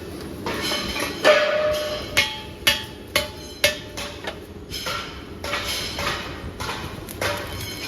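Steel being struck by a hammer in a metalworking shop: a string of irregular, sharp blows, each ringing briefly, the ring changing pitch from blow to blow.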